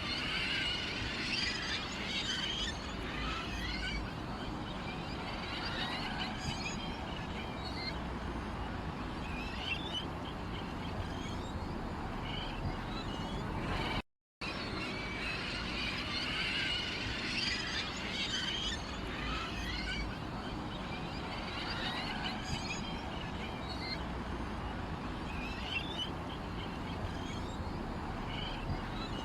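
Small songbirds chirping and twittering over a steady background hiss. The recording cuts out briefly about 14 seconds in, then the same stretch of birdsong starts over as a loop.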